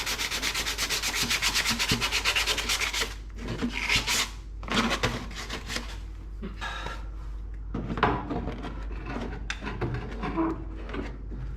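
Fast, even rasping scrape for about three seconds, then scattered scrapes and knocks, as metal suspension parts are worked into place while a car's upper control arms are fitted.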